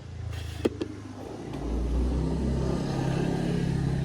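A motor vehicle engine running, a low steady hum that grows louder about a second and a half in and then holds. A single sharp click comes just under a second in.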